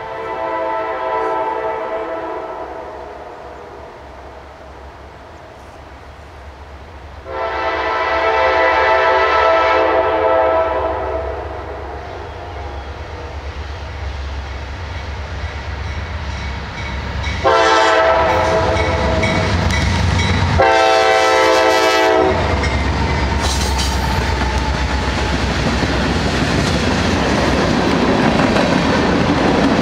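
Norfolk Southern freight train led by a GE C40-8W locomotive, its air horn sounding: a fading blast at the start, a long blast about seven seconds in, then two blasts back to back around eighteen to twenty-two seconds. Over a steady engine rumble, the locomotives and tank cars then pass close by with loud clattering wheels.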